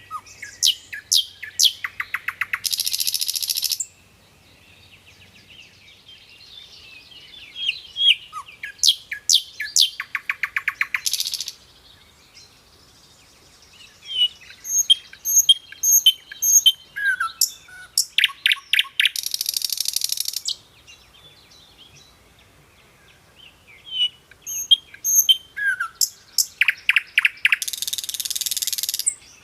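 A songbird singing the same phrase four times: a run of sharp high chirps, then a rapid trill, ending each time in a harsh, buzzy rasp about a second long.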